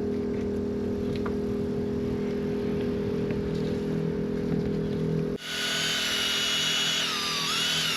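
A motor-driven power tool running: a steady low hum, then, after an abrupt change about five seconds in, a higher-pitched whine whose pitch dips and recovers as if under load.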